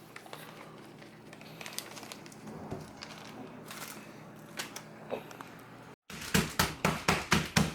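Faint rustling and small clicks, then from about six seconds in, chicken breast being pounded flat: steady, heavy thumps about three a second.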